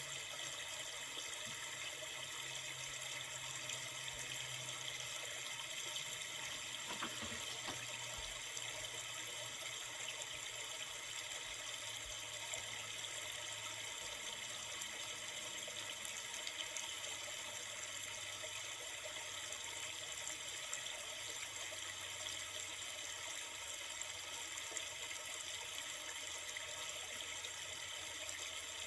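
Steady rushing of a river or stream, an even water noise with no change in level.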